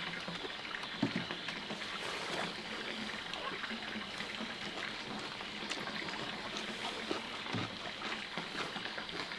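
Small clicks and a couple of soft knocks of chopsticks and bowls at a meal, over a steady background hiss.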